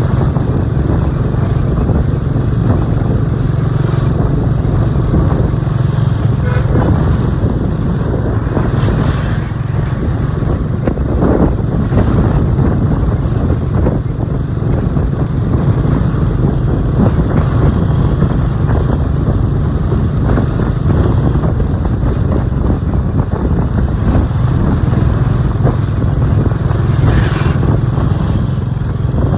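Motorcycle being ridden at a steady speed, the engine running under a constant rush of road noise.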